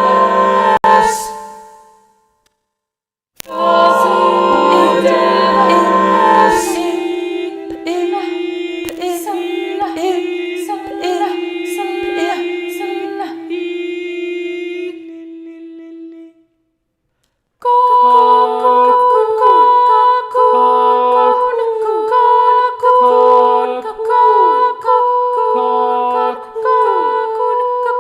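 Unaccompanied choir singing sustained chords. It stops abruptly twice, and from about 18 s the voices pulse in short repeated notes over a held tone.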